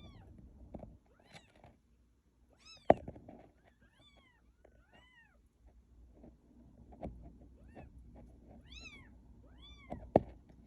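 Cat meowing again and again in short calls that rise and fall in pitch, sounding like a queen struggling through labour. A few sharp knocks, the loudest about three seconds in and another near the end.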